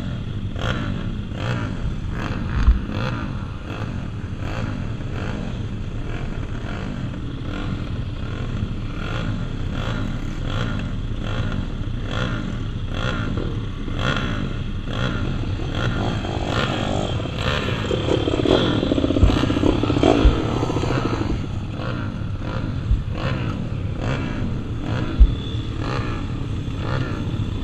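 Several small single-cylinder pit bike engines racing, revving up and down. One bike comes close and louder about two-thirds of the way through. A few dull thumps stand out.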